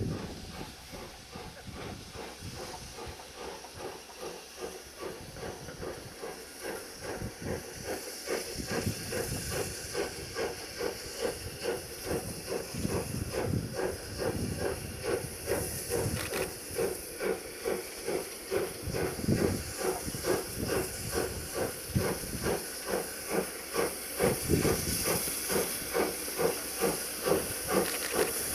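C58 steam locomotive working slowly up a steep grade, its exhaust chuffing in an even rhythm of about two beats a second with steam hiss, growing steadily louder as it approaches.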